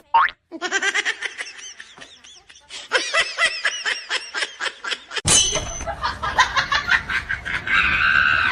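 Laughter in a quick run of short, repeated pulses for about five seconds. About five seconds in it breaks off abruptly into a louder, steady rushing noise.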